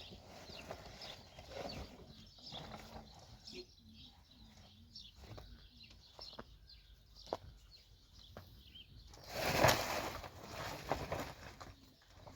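Birds cooing softly in a low, wavering voice, with scattered light clicks and a loud rustling burst about ten seconds in.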